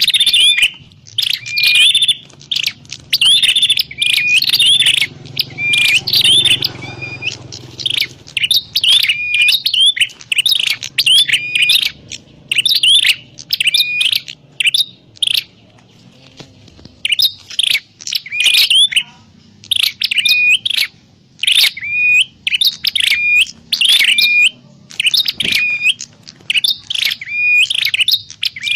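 A prenjak klawu, a small grey prinia, calling in rapid series of sharp, repeated chirps that break off for a couple of seconds about halfway through before resuming. The recording is song used to lure wild birds of the same species.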